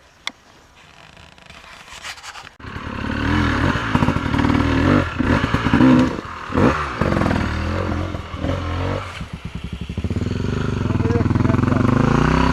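A trail motorcycle's engine comes in loud about two and a half seconds in and revs up and down repeatedly as it works, then its pitch climbs steadily near the end. A single sharp click sounds just after the start.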